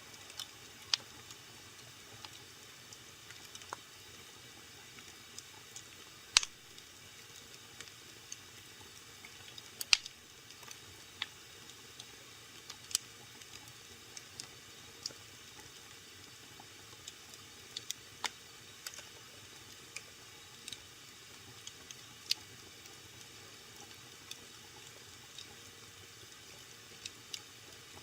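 Wood fire burning in a fireplace, crackling: irregular sharp pops and snaps over a soft steady hiss, the loudest pops about six and ten seconds in.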